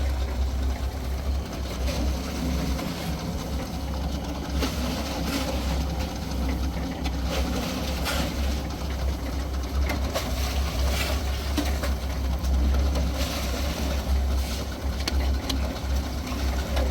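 Wind buffeting the microphone: a steady, gusting low rumble, with a few brief knocks or scrapes.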